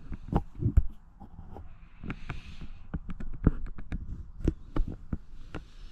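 Irregular thumps and clicks with short bursts of rustling: handling and movement noise while a set fishing line is checked and pulled in.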